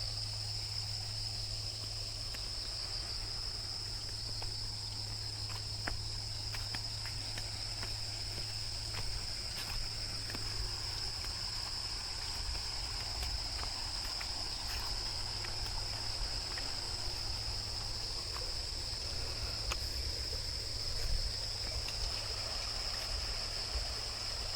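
Outdoor insect chorus: a steady, unbroken high-pitched shrill drone, with a faint low rumble beneath and a few faint scattered clicks.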